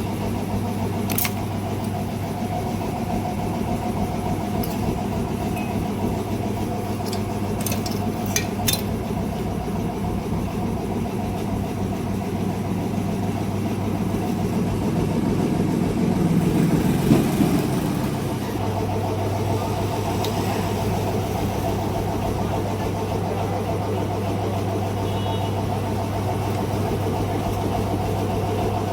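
A steady mechanical drone, like a running engine, with a few sharp clicks in the first nine seconds and a louder swell about halfway through.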